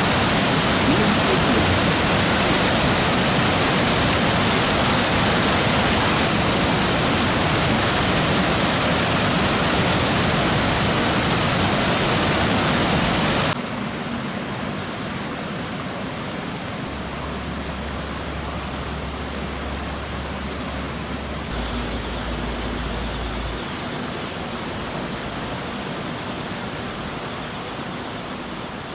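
Rushing of a river swollen by typhoon rain, a steady roar of floodwater. About halfway through it cuts abruptly to a quieter rush that fades out near the end.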